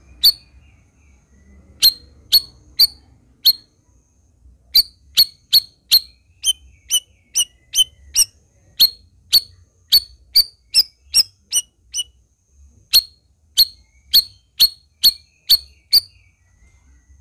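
Cucak rawis songbird giving a long series of sharp, very short chip notes, about two a second, in runs broken by pauses of about a second.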